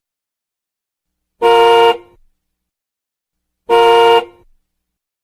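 Tuk-tuk horn sound effect: two short identical honks, each about half a second, a little over two seconds apart.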